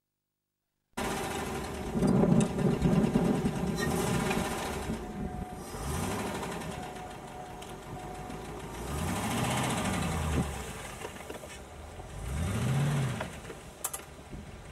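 A car engine running while stationary, revved several times so that its pitch rises and falls in about four swells. The sound only comes in about a second in.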